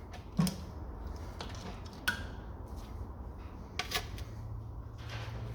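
Scattered light metallic clicks and clinks as the last inlet valves and their springs and collets are taken out of a Ford OHC Pinto cylinder head, about four in all. A low steady hum starts near the end.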